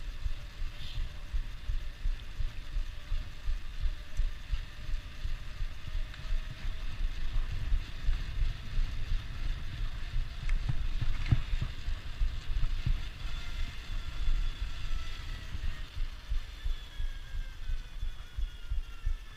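Wind buffeting the microphone of a camera riding along on a moving bicycle, a gusting low rumble, with faint whining tones that slide down in pitch near the end.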